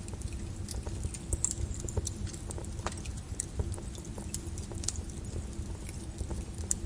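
Flowing lava crackling and popping: irregular sharp cracks and ticks over a steady low rumble.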